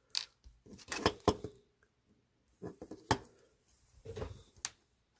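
Small metal diecast parts and tools being handled on a work surface: a handful of sharp, irregular clicks and light taps, with soft rustling between them.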